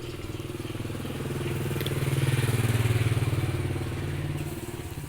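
A motorbike engine passing close by, growing louder to a peak about halfway through and then fading away.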